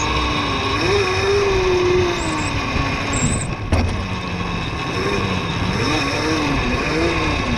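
Mini bike riding along a dirt trail, its motor note rising and falling with the throttle over a constant rush of riding noise. There is a sharp knock about three and a half seconds in.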